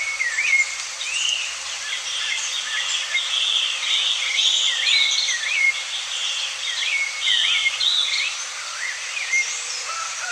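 Birds calling: a short swooping chirp repeated again and again, with a denser chatter of higher notes joining in through the middle.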